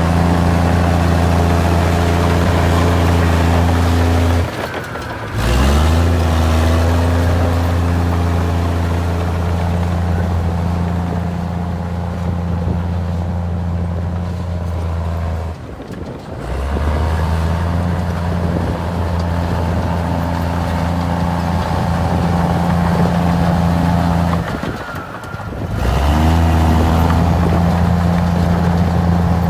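Komatsu D53E bulldozer's diesel engine running steadily under load. Three times the sound dips for about a second, and then the engine note climbs back up in pitch.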